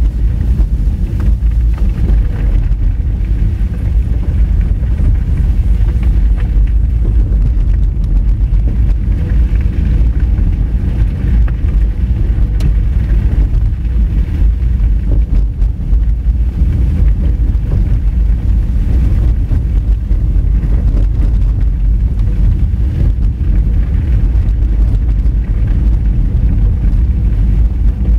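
Honda Fit driving on a rough gravel forest road: a steady low rumble of tyres and running gear on loose, rocky dirt, with scattered small clicks from stones under the car.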